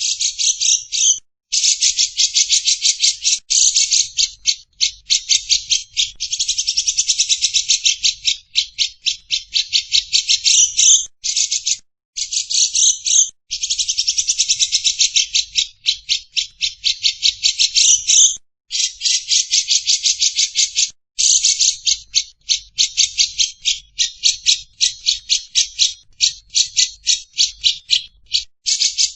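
Lovebird chattering: loud, high-pitched rattling trills of rapid repeated notes in long runs several seconds each, with short breaks between. This is the long, unbroken chatter that bird keepers call ngekek.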